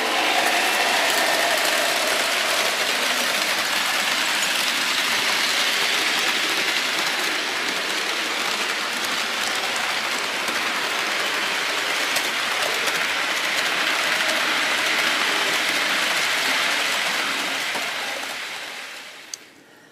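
Steady rushing noise of a train running, fading away near the end.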